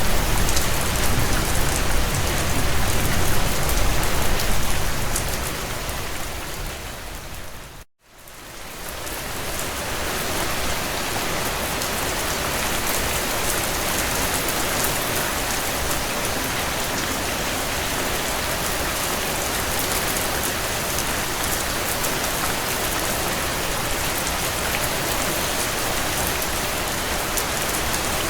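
Steady heavy rain on window glass. About eight seconds in it fades out to a moment of silence, then swells back up and carries on evenly.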